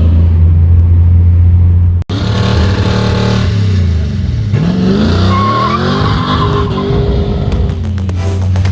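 Car engine running with a steady low drone inside the cabin. After an abrupt cut about two seconds in, a car engine revs with rising pitch, and a brief high squeal comes a little past halfway.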